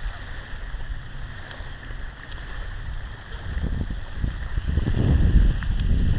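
Wind buffeting the microphone: an uneven low rumble over a steady hiss, growing stronger in gusts in the second half.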